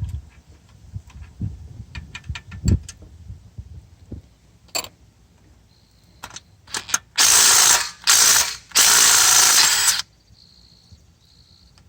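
Power ratchet spinning bolts out of a 6.7 Powerstroke diesel engine: three short loud bursts of running, after a few seconds of scattered clicks and knocks of sockets and tools being handled.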